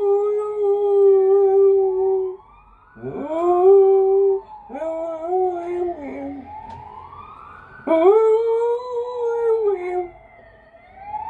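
Pet dog howling along in long drawn-out howls, each swooping up in pitch at the start and then held. One howl ends about two seconds in, and three more begin about three, five and eight seconds in. Between the howls a fainter wailing tone slides slowly up and down.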